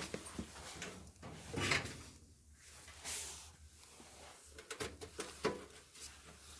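Dryer parts being handled during reassembly: a sharp click, short sliding and scraping sounds, and a few light knocks.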